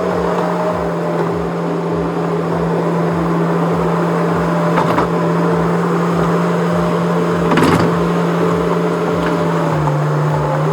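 Skid steer engine running steadily with a low hum. Part of the hum drops in pitch near the end. A couple of short knocks come about five and seven and a half seconds in.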